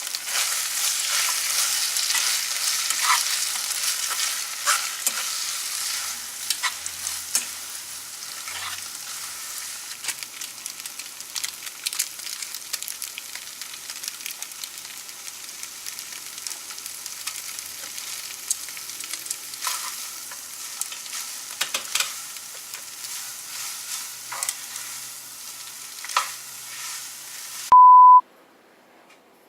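Pad thai stir-frying in a pan: steady sizzling, loudest in the first few seconds, with scattered clicks and scrapes of a utensil against the pan. Near the end a single short beep sounds and the sizzling stops.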